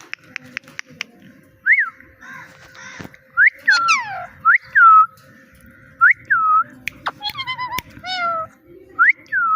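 A parrot whistling, about five short notes that each rise and then fall, with two longer falling meow-like calls imitating a cat, and a few sharp clicks.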